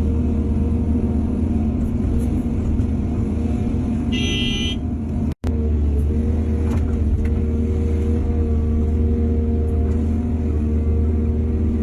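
Heavy diesel engine of an excavator running steadily at work. A short horn-like tone sounds about four seconds in, and the sound drops out for a split second just after.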